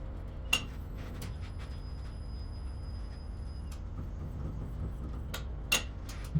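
Franna pick-and-carry crane's diesel engine running at a steady low rumble, with sharp metallic clanks about half a second in and again near the end, and a few lighter clicks in between.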